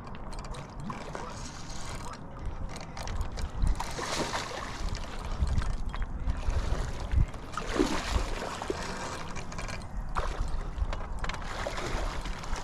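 Irregular splashing and sloshing of river water at the bank, in uneven surges, as a hooked channel catfish is brought in to shore.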